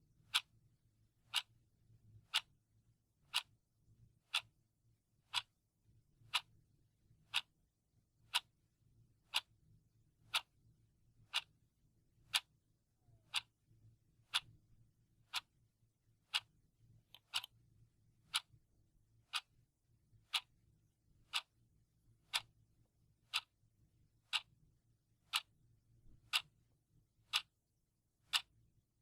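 Clock ticking steadily, one sharp tick a second, counting down the seconds.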